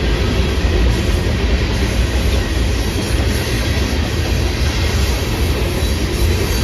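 Freight train rolling past close by: a steady, loud rumble and rattle of the cars' wheels on the track.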